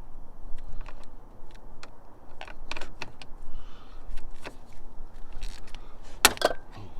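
Metal hand tools clinking and clicking against the battery's terminal and hold-down hardware as they are tightened. The clicks are scattered and irregular, and the sharpest is a double click near the end.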